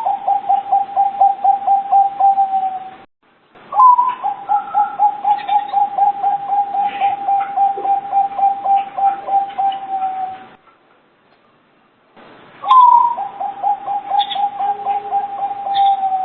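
Zebra dove (perkutut) cooing in three phrases. Each phrase opens with a higher note, then runs into a fast, even string of short coos, about five a second. The first phrase is already going at the start, and the gaps between phrases are silent.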